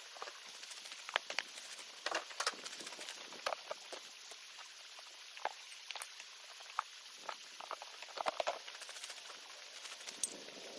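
Steady rush of a running creek, with scattered light clicks and knocks of camp gear being handled.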